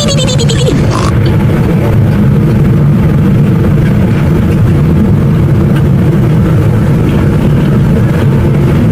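A loud, steady engine-like drone holding one pitch throughout, with no revving.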